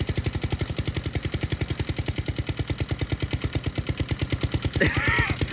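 Honda GCP160 single-cylinder overhead-cam lawnmower engine running slowly with even firing pulses, about a dozen a second. It is barely running and dying, its crankcase filled with ketchup instead of oil.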